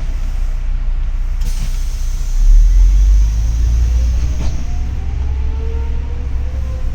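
Double-decker city bus heard from inside the cabin: a steady low engine rumble that swells about two and a half seconds in, then a whine rising in pitch as the bus pulls away and speeds up. A short hiss sounds about one and a half seconds in.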